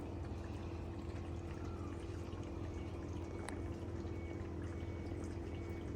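Faint, steady hiss of light rain mixed with wet snow, with a few faint drips and a low steady hum underneath.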